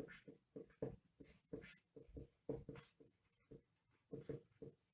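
Faint writing on a board, a quick run of short pen or chalk strokes with small squeaks, about three or four strokes a second.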